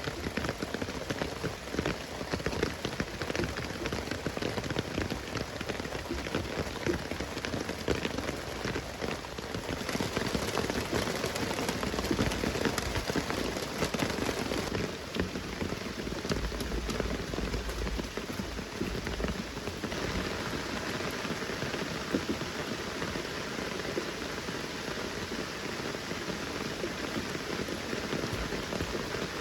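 Rain falling steadily, a dense patter of many small drops. The texture shifts a few times.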